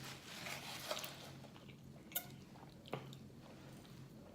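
Faint eating sounds: soft chewing and food handling, with two small sharp clicks about two and three seconds in, over a low steady hum.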